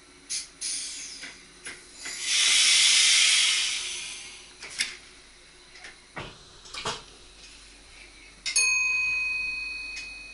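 Train cab sounds: a loud hiss of released compressed air lasting about two seconds, scattered sharp clicks, and near the end a single bell-like ding that rings out and fades.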